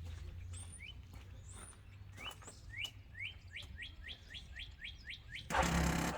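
A bird calling with short rising chirps, a quickening run of them in the middle. Near the end a loud burst of about half a second as the 2009 Kawasaki Wolverine 450 ATV's engine is cranked to start.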